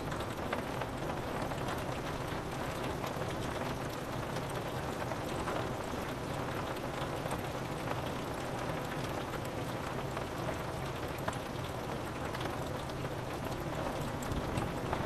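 Steady rain pattering on a window pane, a dense even patter with scattered single drop ticks.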